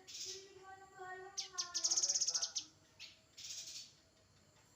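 Songbird calling: a rapid, high, buzzy trill of fast pulses starting about a second and a half in and lasting about a second, with short hissing notes at the start and again past the middle, over lower gliding notes in the first half.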